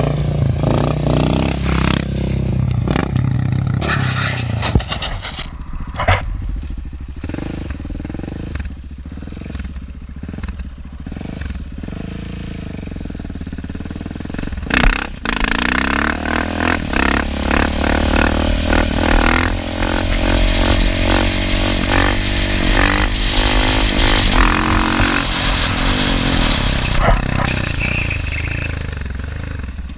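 Motorcycle engine running, with many short knocks and clatters over it and a sharp loud knock about fifteen seconds in.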